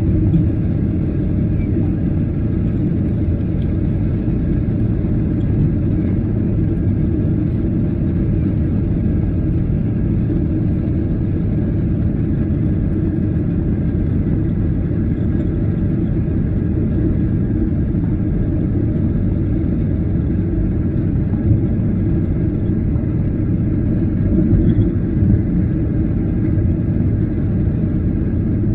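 Steady low rumble of a Boeing 737-800 airliner heard from inside the passenger cabin: engine and airflow noise, even throughout with no change in pitch.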